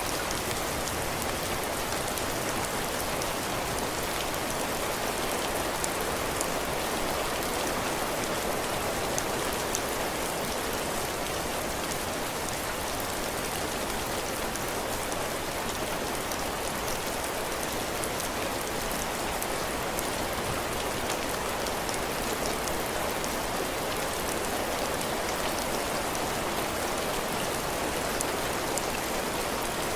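Heavy rain falling steadily on a cabin porch, drops hitting the roof and the ground in a dense, even patter.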